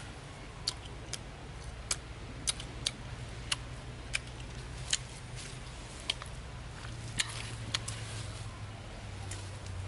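Someone eating: irregular sharp smacks and clicks of chewing, about one a second, over a low steady hum.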